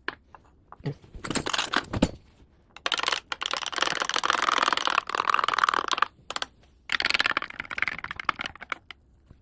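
Handling noise on the recording device: crackling rubbing and tapping against the microphone in irregular bursts, with a long stretch a few seconds in and another shorter one near the end.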